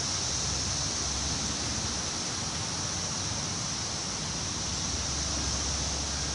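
Wind blowing steadily through trees, a constant rushing with a low rumble beneath and a steady high hiss above.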